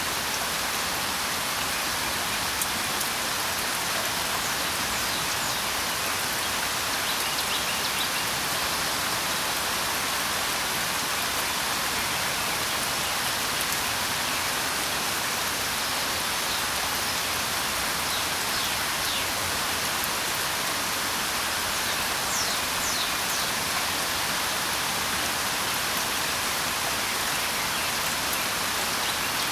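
Steady rain, an even dense hiss. A few faint, short, high notes come through now and then, in small clusters.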